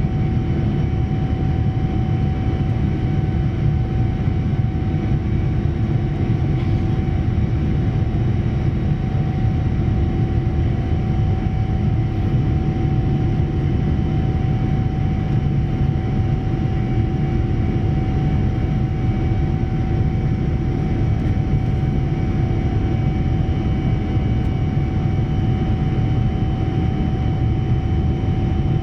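Steady cabin noise inside an airborne Boeing 787-9 airliner: the even rush of airflow and its Rolls-Royce Trent 1000 engines, with a constant hum of a few fixed tones on top.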